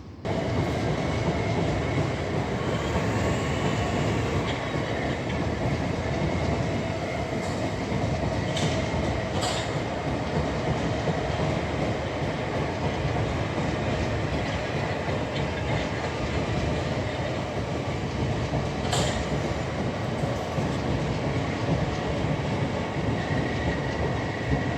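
Electric multiple-unit train running through the station at a steady level, wheels clacking over the rail joints, with a few sharp clicks along the way.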